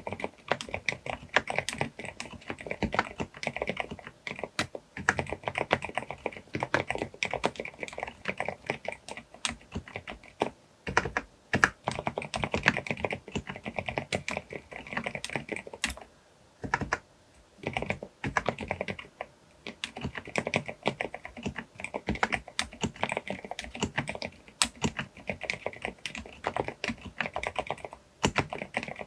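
Groovestone GV10M-8K mechanical keyboard with silent brown switches (38 g) being typed on quickly in rapid runs of keystrokes, broken by a few short pauses.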